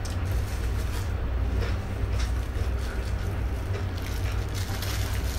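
Crunching and chewing of a fresh lettuce leaf, a run of crisp crackles, over a steady low hum.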